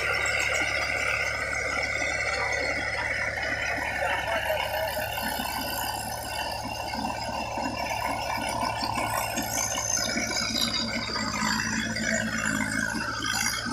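Steady mechanical rattling over a continuous low hum, as from a running machine.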